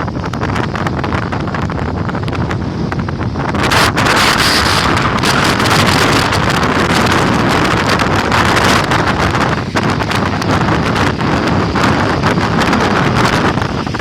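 Strong wind gusting against a Naturehike Ultralight 2 tent, its fabric flapping and crackling, with heavy wind noise on the microphone. A stronger gust comes in about three and a half seconds in and holds until near the end.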